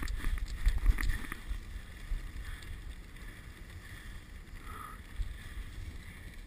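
Dog sled moving along a snowy trail: a steady hiss and rumble of the runners on snow, with wind on the microphone, louder in the first second or so and then easing off.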